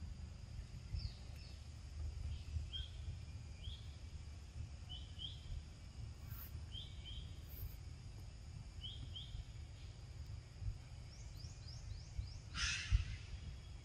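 Outdoor ambience of a bird chirping in short paired notes about once a second, over a faint steady insect hum and a low rumble. A quick run of falling chirps and then a brief rustle come near the end.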